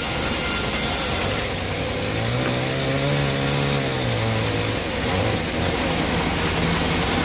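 Sawmill machinery running. A high-pitched cutting hiss stops about a second and a half in, then a motor's pitch rises and falls back before settling into a steady hum.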